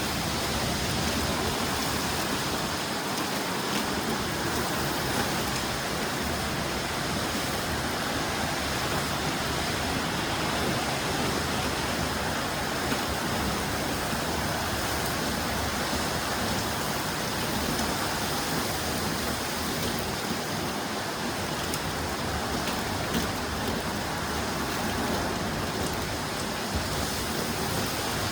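Heavy storm rain pouring steadily, an even hiss of rain.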